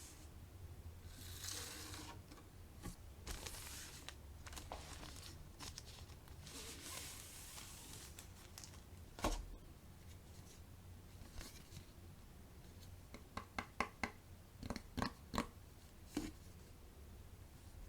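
Plastic and paper packaging being handled and torn open, crinkling and rustling in several stretches. A quick run of sharp clicks and taps follows near the end.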